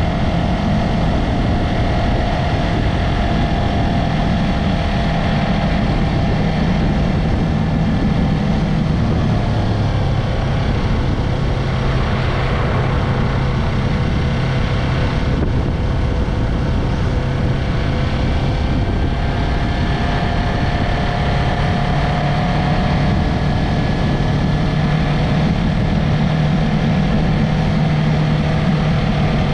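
Yamaha MT-03's parallel-twin engine and exhaust running while riding, its note drifting gently lower and higher with road speed, over a constant rush of noise.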